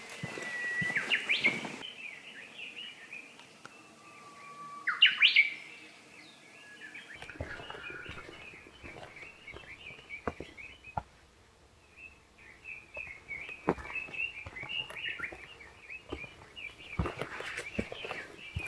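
Wild songbirds singing. Two loud songs come near the start, each a held whistle followed by a quick rising flourish, over continuous chattering chirps. From about the middle on there are irregular short clicks and taps.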